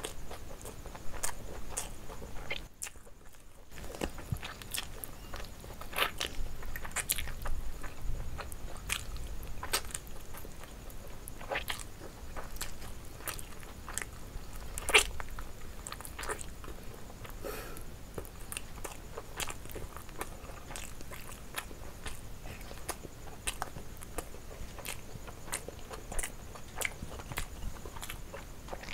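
Close-up mouth sounds of eating a chicken drumstick by hand: biting meat off the bone, chewing and lip smacks, a steady run of short wet clicks. There is one sharper click about halfway through and a brief break about three seconds in.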